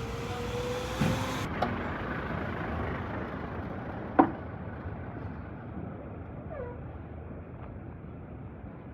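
Steady low rumble of street traffic with a few sharp knocks, the loudest one about four seconds in, and a faint slowly rising whine during the first second and a half.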